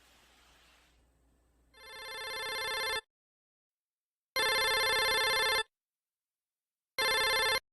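An electronic ringing tone, like a telephone ringtone, sounding three times at one steady pitch with short gaps between. The first ring fades in and the last is cut short.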